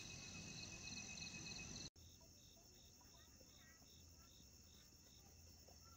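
Faint chorus of insects chirping outdoors: a steady high buzz with pulsed chirps about three times a second. It drops quieter at a cut about two seconds in.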